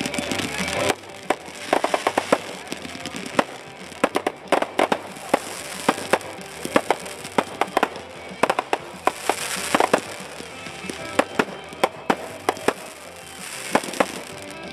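Aerial fireworks display: volleys of sharp bangs and crackling reports in clusters every second or two, with a steady hissing fizz between them.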